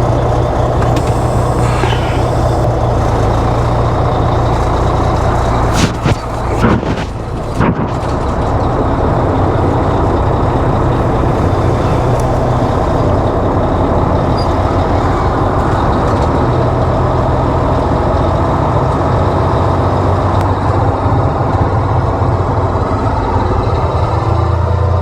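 Semi-truck's diesel engine running steadily, heard from inside the cab, with a few sharp clicks about six to eight seconds in.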